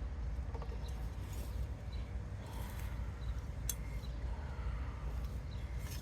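Soil rustling and scraping as potatoes are dug up by hand, over a steady low rumble, with a sharp click a little before four seconds in. Faint chirps of birds come and go.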